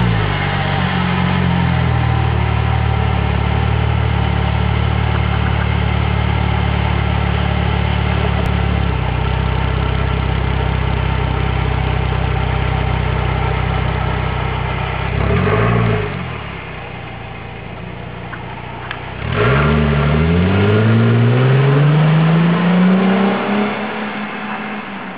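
Mercedes-Benz W203 C-Class engine through an aftermarket Weltmeister exhaust, held at steady raised revs for about fifteen seconds. A quick blip follows, then it settles to a quieter idle. About three-quarters of the way in it revs up in a slow rise and falls away near the end.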